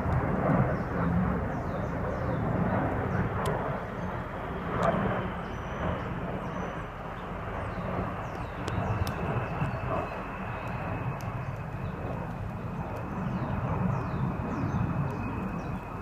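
Steady rumble of a fixed-wing aircraft's engines passing overhead. A few faint sharp taps are scattered through it, from a woodpecker hacking at wood, along with faint high chirps.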